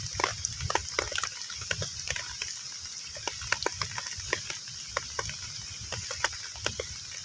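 Heavy rain falling on a pond's surface: a steady hiss with a low rumble, and many irregular sharp plinks and plops of drops hitting the water.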